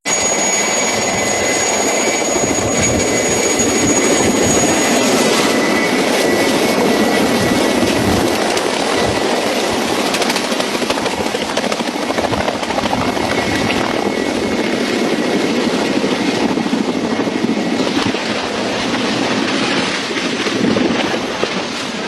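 Helicopter running close by: loud, steady rotor and engine noise with thin high whistles on top, one of which drops out about five seconds in.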